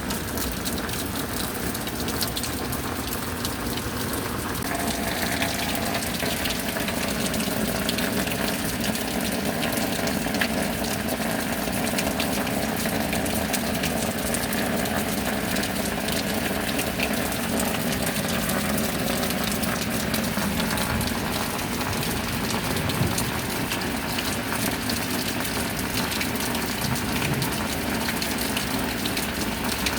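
Steady rain with water pouring and gushing continuously, an even, dense rush. A little after four seconds in, the low part of the sound shifts slightly.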